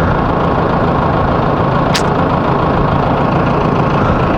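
An engine idling steadily, with a short sharp tick about two seconds in.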